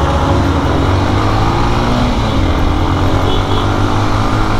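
Lifan KPR motorcycle engine running under way, heard from the rider's seat over a heavy rumble of wind and road noise. The engine note climbs a little over the first couple of seconds, then holds steady.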